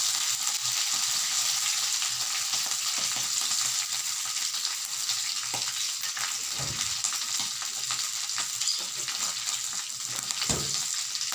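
Pieces of beef rendang frying in oil in a wok: a steady sizzle with fine crackles. Two dull thumps, about six and a half and ten and a half seconds in.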